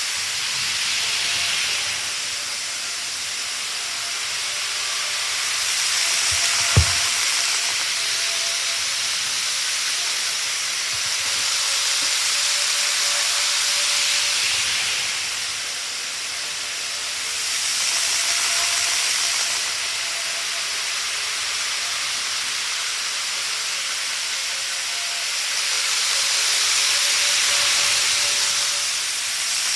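Model train running on the track: a steady hissing rumble of wheels and motor that swells and fades every several seconds, with a faint motor whine. A single sharp click comes about seven seconds in.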